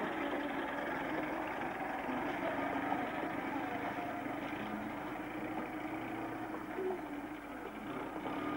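A Lada Zhiguli sedan's engine running steadily as the car drives off.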